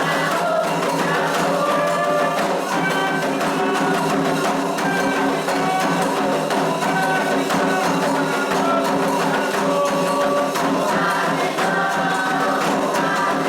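Group singing of a Candomblé song for Xangô over continuous ceremonial percussion, the voices and percussion going on steadily without a break.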